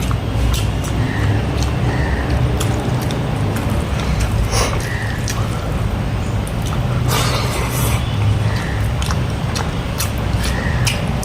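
Eating sounds: chewing and crunching clicks, some louder than others, over a steady low rumble.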